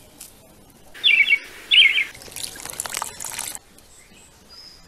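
A bird gives two loud warbling calls about a second and two seconds in. After them comes about a second of wet crackling and tearing from a ripe jackfruit being pulled apart by hand, then only faint outdoor ambience with faint distant chirps.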